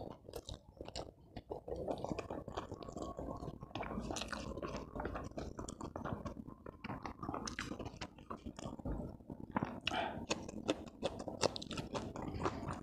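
Close-miked chewing of a mouthful of rice and side dishes eaten by hand, with wet mouth sounds and many small crisp clicks throughout.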